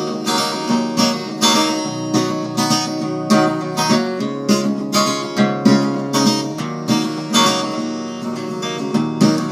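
Acoustic guitar strummed in a steady rhythm, about two strokes a second, with no singing: an instrumental break between verses of a song.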